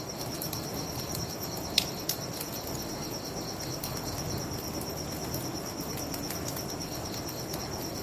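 Crickets chirping in a steady, fast pulsing trill, with a few sharp crackles from a wood fire, the loudest about two seconds in, over a low steady rush.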